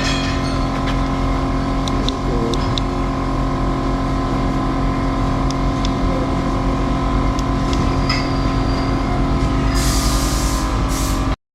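KTM 390 Adventure's 373 cc liquid-cooled single-cylinder engine idling steadily at constant revs. A short hiss comes near the end, then the sound cuts out abruptly for a moment.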